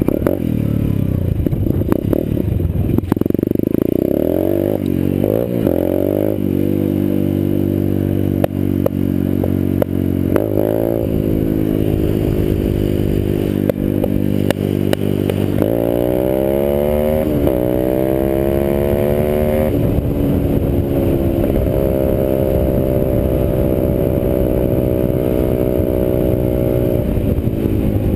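Orion 125cc dirt bike engine running with a few short blips of revs early on and again about ten seconds in, then climbing steadily for about four seconds, holding at higher revs and dropping back near the end.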